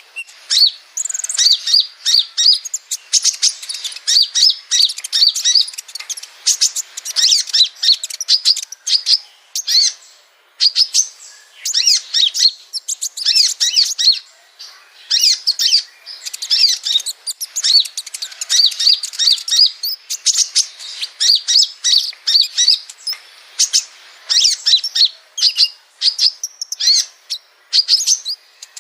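Rapid, high-pitched chirping and twittering song of small sunbird-type songbirds, the Indonesian 'kolibri' used as a training recording for caged birds. The calls come in a dense, near-continuous stream of quick notes and trills, with a short pause about ten seconds in.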